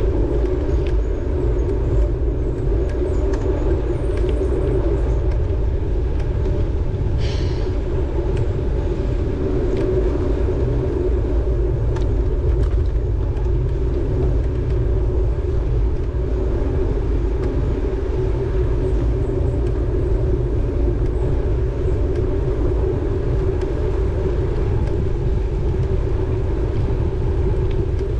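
Steady wind rumble buffeting the camera microphone on a moving bicycle, with a short higher-pitched sound about seven seconds in.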